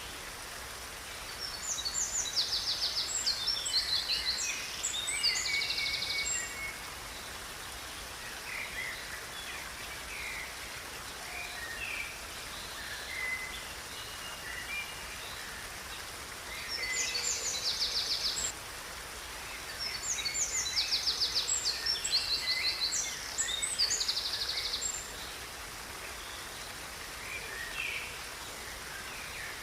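Songbirds singing high, fast trills and chirps in three long bouts over a steady background hiss.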